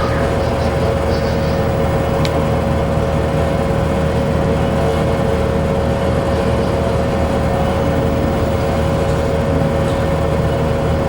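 Bowling alley room tone: a steady low rumble with a constant hum running through it, and one faint click a couple of seconds in.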